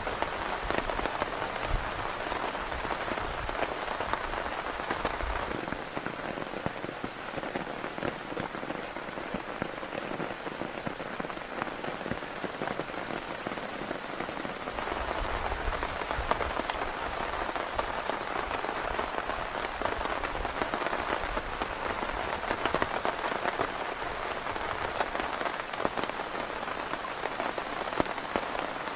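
Steady heavy rain falling on a tent, a dense hiss of fine drops. A low rumble underneath fades out about five seconds in and comes back at about fifteen.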